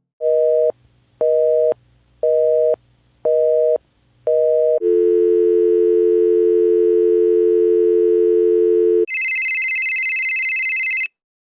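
Telephone line tones: a busy signal of five evenly paced two-tone beeps, then a steady dial tone for about four seconds, then a shrill high-pitched tone for about two seconds that cuts off suddenly.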